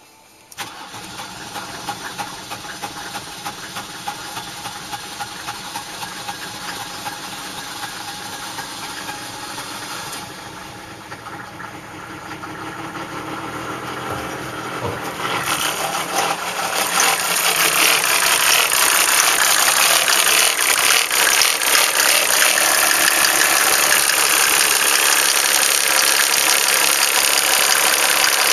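1987 Mercedes-Benz 300D's turbo-diesel inline-six starting hard from cold: the engine turns over about half a second in and labours unevenly, then picks up and settles into a loud, steady diesel clatter from about seventeen seconds in.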